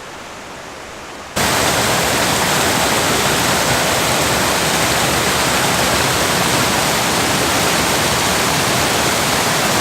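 Waterfall heard close up: a loud, even rush of falling water that starts abruptly about a second in, after a fainter rushing hiss.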